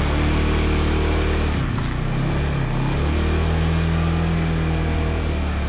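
Scooter engine running while riding, with road and wind noise; its note wavers briefly about two seconds in, then holds steady.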